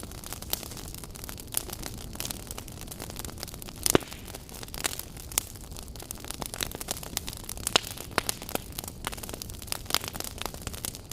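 Wood campfire burning, with irregular crackles and pops over a low steady rush of flame; the loudest pop comes about four seconds in.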